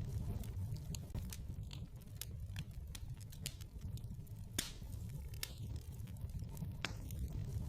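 Wood fire burning in a fireplace: a low steady rumble of flames with irregular crackles and sharp pops from the burning logs.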